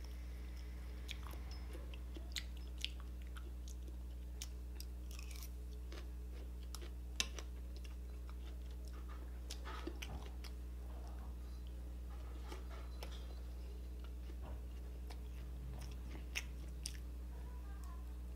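Close-miked chewing and biting of grilled chicken liver and gizzard pulled off a skewer, with many small scattered clicks of mouth and utensil sounds over a steady low hum.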